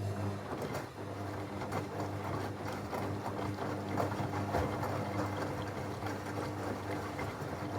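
Techwood WB 91042I front-loading washing machine running: a steady motor hum with water and laundry sloshing and clattering in the turning drum. It cuts in abruptly at the start.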